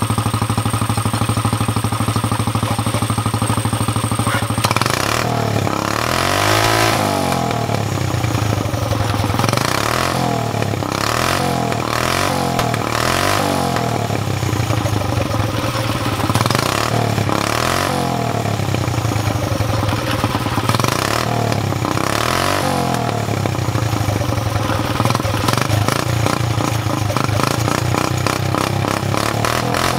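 Go-kart engine breathing through a motorcycle exhaust. It idles steadily for about four seconds, then revs up and down over and over.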